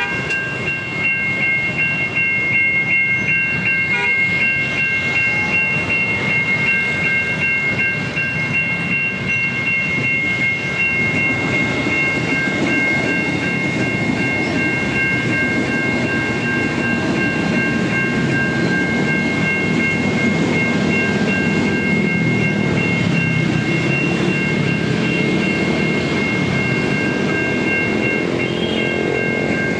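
Level crossing warning signal sounding a steady high-pitched tone throughout, like American crossing bells, while a train passes, its rumble and wheel clatter on the rails building from about ten seconds in and staying loud.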